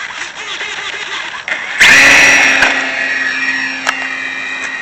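Electric motor and propeller of an FMS PT-17 model biplane spinning up suddenly about two seconds in, a loud steady whine that eases off gradually.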